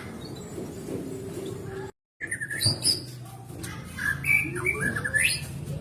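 White-rumped shama (murai batu) singing short, sharp whistled and chirping notes, over a steady low background hum. The sound cuts out completely for a moment about two seconds in.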